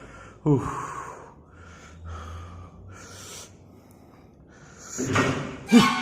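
A man breathing heavily in a small room, with a short vocal grunt about half a second in, then several breathy exhalations and sighs. Louder voice sounds begin about five seconds in.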